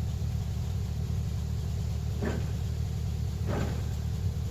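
A vehicle engine idling with a steady low rumble. Two short sounds stand out over it, about two seconds in and again a second later.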